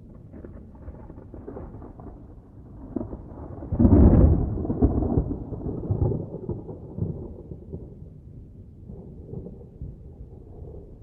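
Dry thunder rumbling, with a loud peal swelling about four seconds in and dying away over the next few seconds.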